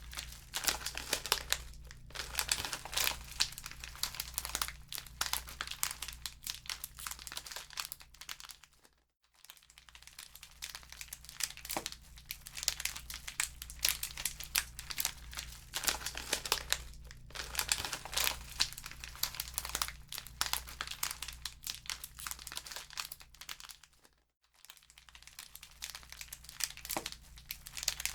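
Wood fire crackling in a fireplace: a dense, irregular stream of small crackles and pops over a low steady hum. The crackle fades out briefly twice, about nine seconds in and again about twenty-four seconds in.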